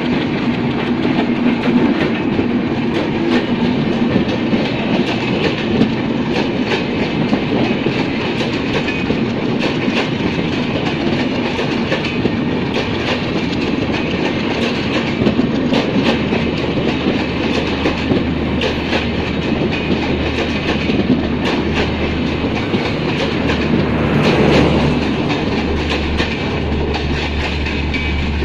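Passenger coaches of an intercity train rolling past close by, wheels clicking steadily over the rail joints with a continuous rumble. A low steady hum joins in over the second half.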